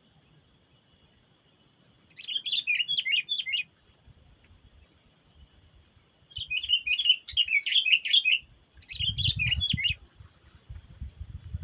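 Sooty-headed bulbul singing in three short bursts of quick, bubbly chattering phrases, over a faint steady high whine. A low rumble comes in near the end.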